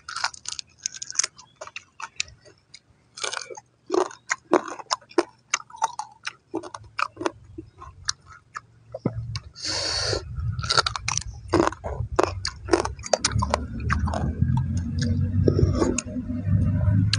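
Close-up eating sounds of a person chewing raw crab chunks in hot-and-sour sauce: many wet clicks and smacks, with a longer slurp about ten seconds in. A low rumble joins in the second half.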